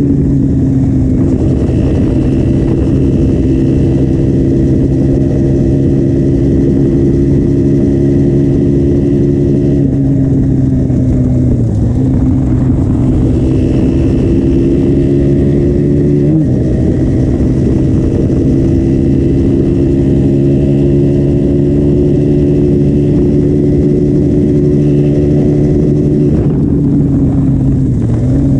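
2015 KTM Duke 125's single-cylinder four-stroke engine running loud through its stock exhaust at steady revs, its pitch sagging about ten seconds in, jumping up sharply a few seconds later, and dipping and recovering again near the end.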